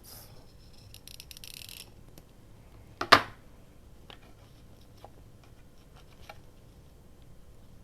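Paper and craft materials handled on a tabletop: a brief rustle of paper about a second in, one sharp knock of something set down just after three seconds, then light scattered ticks and taps.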